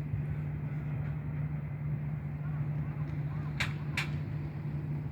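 Steady low drone of a jet airliner's engines, with two short sharp sounds about three and a half seconds in.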